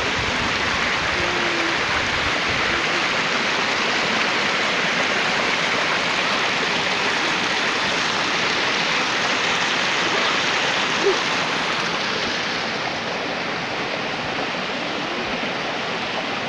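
A stream of rushing water, running steadily.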